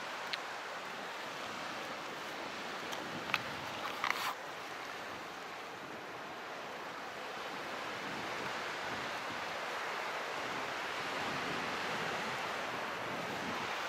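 Sea surf: a steady wash of waves that swells slowly louder over the second half, with a few sharp ticks about three to four seconds in.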